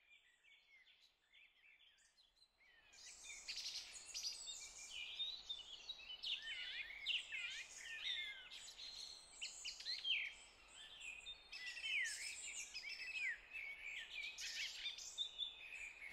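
Birdsong: a busy chorus of short chirps and whistled notes from several birds over a soft background hiss. It is faint at first and grows much louder about three seconds in.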